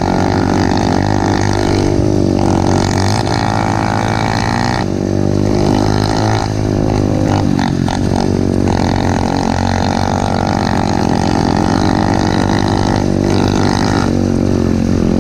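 Pit bike engine running steadily and loudly as it is ridden, its pitch and tone shifting every few seconds with the throttle.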